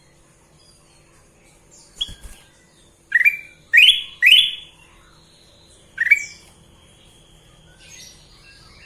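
Kutilang emas bulbul calling in short, loud whistled notes that rise in pitch: one about three seconds in, two loud ones just after, and another about six seconds in. A light knock comes about two seconds in, and soft high chirps sound in the background.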